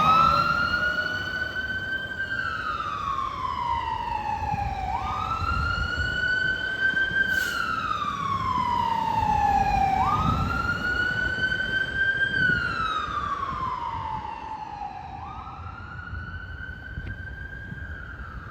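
Emergency vehicle siren on a slow wail, about five seconds a cycle: each one rises quickly, holds, then slides slowly down. It comes in at the start, over vehicle engine noise, and fades away over the last few seconds as the unit moves off.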